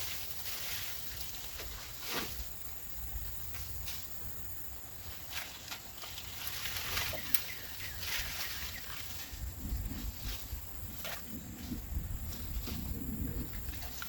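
Outdoor ambience in brush: scattered light crackles and clicks over a low rumble of wind on the microphone and a steady high hiss; no chainsaw running.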